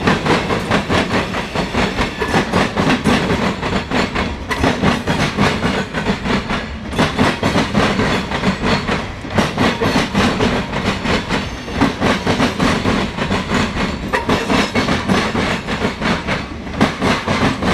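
Norfolk Southern mixed freight train's cars rolling past close by, steel wheels clattering over the rail joints in a rapid, continuous clickety-clack.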